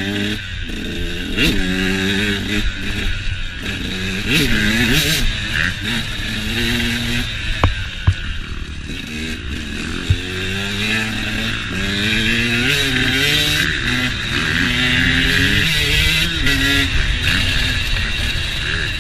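Motocross dirt bike engine revving up and down over and over as the rider accelerates, backs off and shifts, with wind rushing over the microphone. A few sharp knocks sound around the middle.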